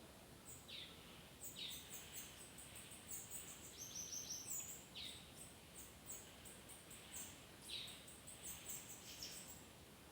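Bananaquit (sibite) singing: phrase after phrase of very high, thin, rapid buzzy trills, mixed with short falling whistled notes about once a second. Faint.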